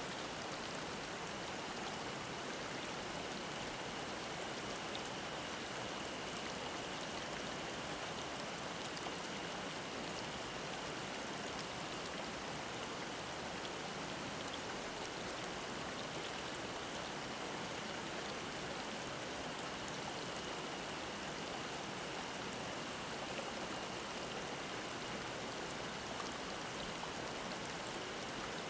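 Mountain stream babbling in a steady rush of water, with a faint, steady high-pitched drone of cicadas above it.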